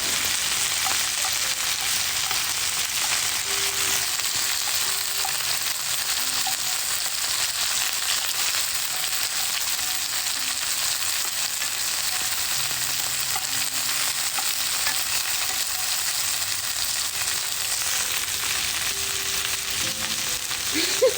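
Meat sizzling steadily over a wood fire, an even frying hiss.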